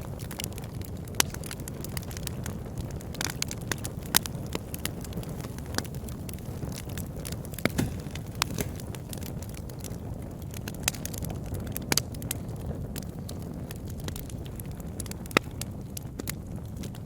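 Wood fire crackling in a fireplace: irregular sharp pops and snaps over the steady low sound of the flames, with a few louder pops scattered through.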